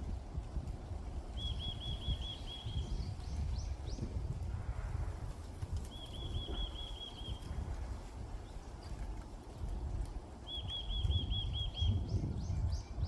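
A songbird singing a short phrase of quick, evenly repeated high notes three times, about four to five seconds apart, each followed by a few faint rising chirps. Wind rumbles on the microphone underneath, swelling near the end.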